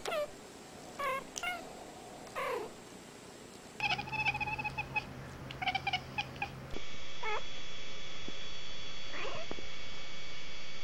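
Domestic cats calling in three short clips. First comes a run of short chattering meows with bending pitch. About four seconds in comes a cat yowling in quick, repeated pitched cries. After a cut, two drawn-out meows glide up and down over a steady faint high whine.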